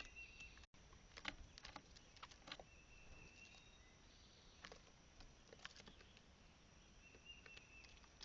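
Faint irregular taps and clicks of birds pecking and shuffling on a seed feeder, close to the feeder's microphone. Three times a thin, level, high note about half a second long sounds in the background.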